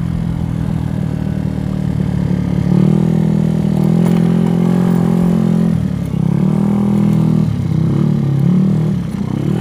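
GY6 scooter's single-cylinder four-stroke engine, bored out to 88cc, running on the move: it picks up speed about three seconds in, then eases off and comes back on the throttle a few times.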